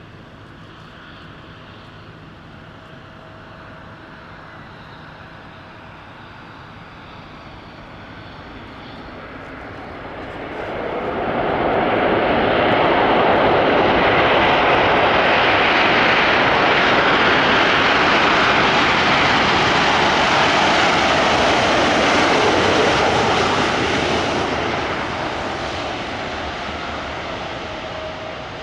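Jet airliner engines growing from a distant rumble to a loud, full roar as the aircraft passes close by, loud for about twelve seconds, then fading away.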